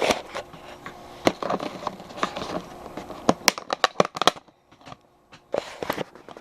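A plastic leftovers container being opened by hand: crackling and a quick run of sharp clicks and snaps from the lid, densest about three to four seconds in, with a few more near the end.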